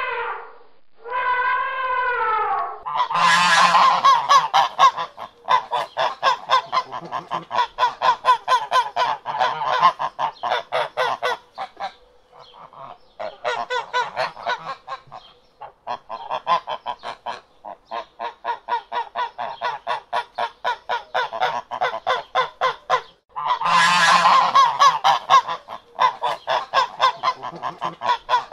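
An elephant gives two short, horn-like trumpet calls. Then, about three seconds in, a flock of domestic ducks starts quacking in a rapid, continuous chatter, with a couple of brief lulls.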